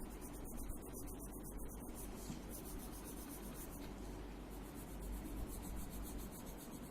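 Colour pencil scratching back and forth on paper as an area is shaded in.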